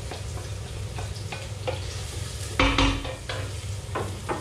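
Garlic and onion frying in hot oil in a wok, sizzling steadily, with scattered clinks and scrapes of a plate and utensil and one louder clatter a little past halfway.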